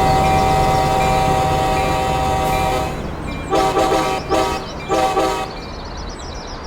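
Locomotive multi-chime air horn holding a long blast that cuts off about three seconds in, followed by three short blasts, over the low rumble of the train.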